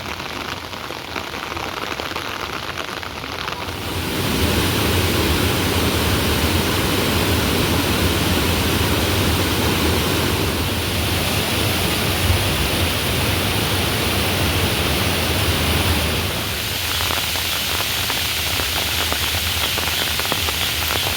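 Heavy rain falling steadily, a dense hiss that grows louder about four seconds in.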